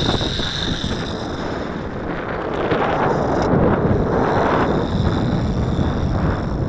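Strong gusty wind buffeting the microphone, a rough rumbling noise that swells and eases.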